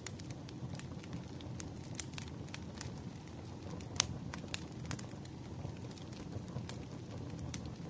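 Wood fire burning: a low steady hiss with irregular sharp crackles and pops of the logs, one louder pop about four seconds in.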